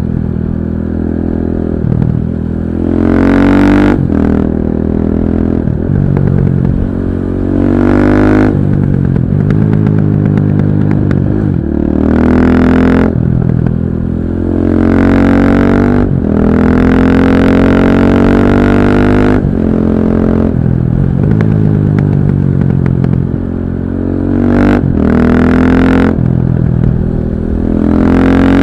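KTM 640 LC4 supermoto's single-cylinder four-stroke engine under way, revving up again and again with a sharp drop in pitch at each gear change. The sound is dull and muffled, with no wind noise.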